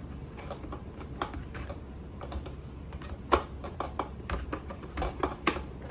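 Irregular plastic clicks and taps as the push-to-open lid of a Sboly single-serve coffee maker is pressed and handled, with a sharper click about halfway through and another near the end.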